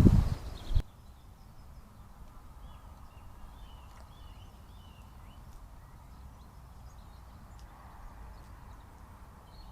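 A loud burst of rustling and knocks that cuts off abruptly under a second in, then faint outdoor background noise. About three to four and a half seconds in, a small bird gives a short run of faint chirps.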